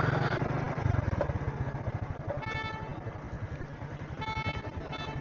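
A small 70cc motorcycle engine idling steadily with an even low pulse. A vehicle horn honks twice, briefly, from about halfway in and near the end.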